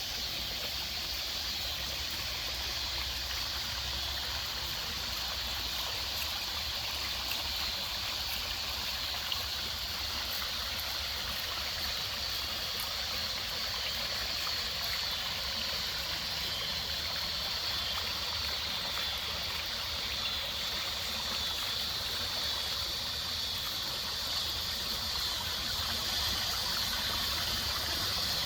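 Water running steadily over a garden pond waterfall, a continuous splashing trickle.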